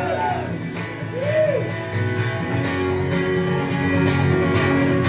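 Acoustic guitar strummed in a steady rhythm: the live instrumental intro of the song, before the singing comes in.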